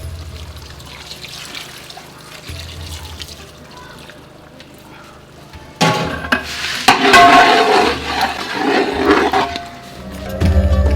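Coconut milk being poured into a pan of chicken roast and stirred through: a faint liquid sound at first, then a much louder swishing, swirling sound from about six seconds in.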